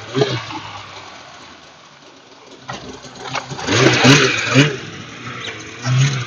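Engine revving in short bursts from about halfway through, after a quieter stretch.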